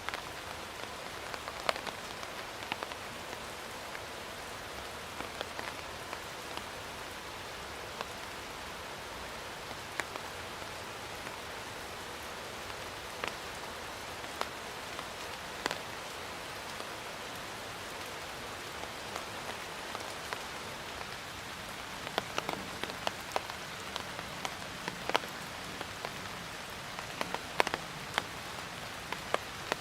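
Steady rain falling, an even hiss with many separate drops ticking sharply on a surface; the drips come thicker and louder in the last third.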